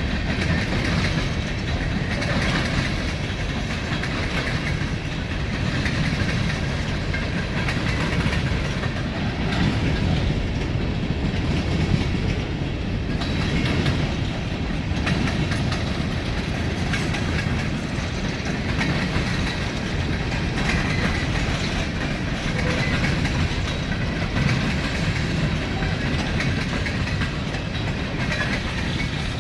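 Train running along the track: a steady rumble with wheel-on-rail clatter.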